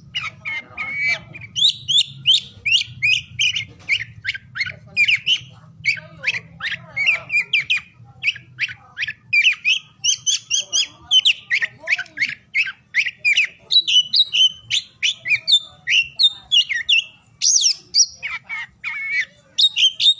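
Oriental magpie-robin (kacer) singing a fast, unbroken stream of varied whistled notes and chirps.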